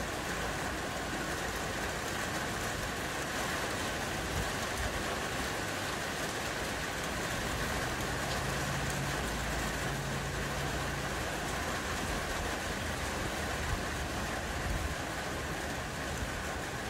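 Gentle rain falling, a steady even hiss.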